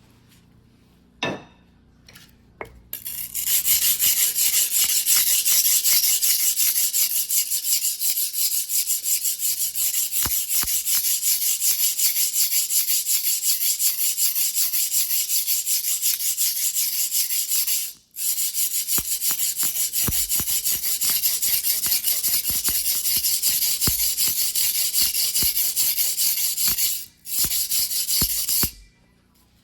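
Blade of a white-steel fuguhiki sashimi knife stroked rapidly back and forth on a whetstone, a steady gritty scraping with two brief pauses.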